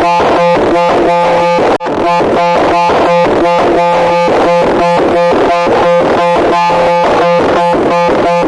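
Loud, harsh electronic buzzing tone pulsing rapidly at about five pulses a second, with a brief break about two seconds in.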